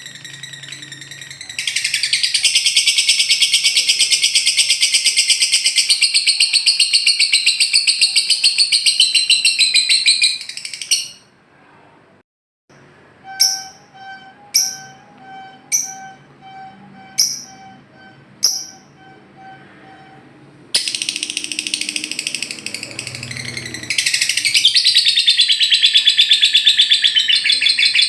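Lovebird 'ngekek': long, very fast, high-pitched chattering trills. One trill runs for about nine seconds and then breaks off. After a short pause come several single sharp chirps about a second apart over a faint steady tone, and then the rapid trill starts again.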